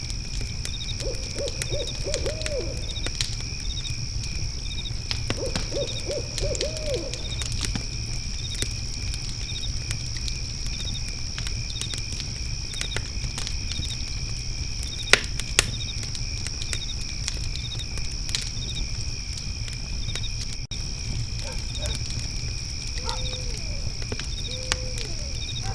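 Night ambience of an owl hooting, in two quick runs of four or five hoots a few seconds in and a few longer hoots near the end, over a steady high trill of crickets and the crackle of a fire pit, with two sharp pops about halfway through.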